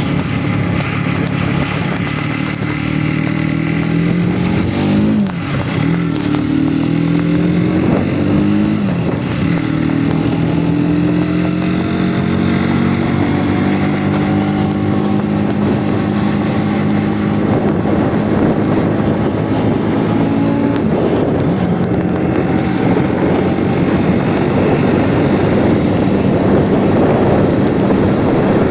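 Aprilia Tuono 125 motorcycle's single-cylinder four-stroke engine running under way, its note dropping and climbing again twice in the first third as it changes gear, then holding steady. In the last third a rushing noise covers the engine note.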